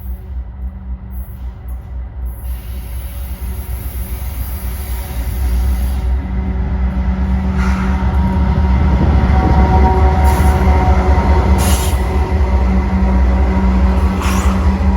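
Westbound freight train's diesel locomotives approaching and passing, with a heavy low engine rumble and steady tones that grow louder about five seconds in. A few brief sharp high-pitched noises, perhaps wheel squeal, come through over it.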